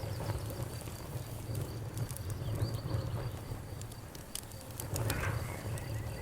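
Wood fire crackling, with scattered sharp pops over a steady low rumble of the flames. A steady high insect trill runs behind it.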